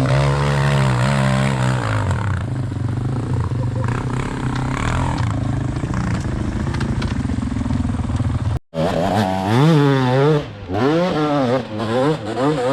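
Dirt bike engine running hard, its pitch wavering up and down. After a momentary gap about two-thirds of the way through, it revs in quick repeated rises and falls.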